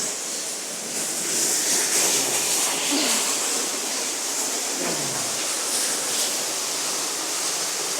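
Underground waterfall in a cave, a steady rush of falling water with a strong hiss.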